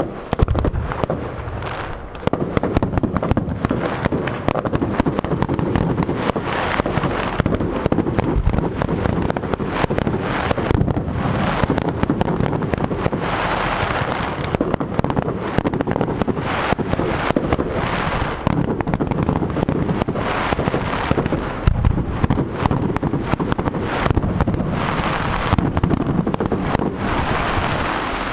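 Fireworks display: rapid bangs and crackle from bursting shells, thickening into a dense, continuous barrage about two seconds in.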